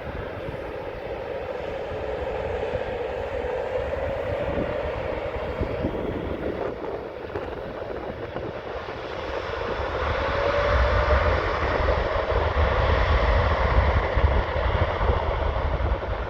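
Jet airliner's engines at takeoff thrust during a departure, a steady rumble with a whine, growing louder about ten seconds in.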